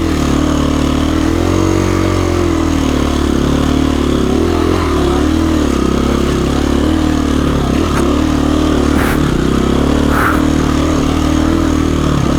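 A KTM 350 EXC-F's single-cylinder four-stroke engine running at low, steady throttle as the dirt bike picks its way along rough trail. Its pitch rises and falls gently with small throttle changes, and a few faint ticks come in the second half.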